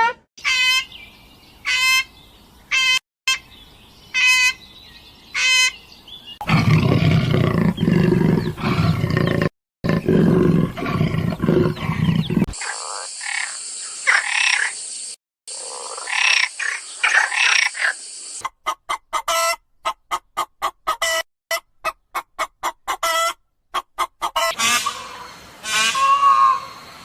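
A string of different animal calls cut one after another: short repeated pitched calls at first, then a loud rough low stretch, then calls over a steady high hiss, then quick repeated chirps.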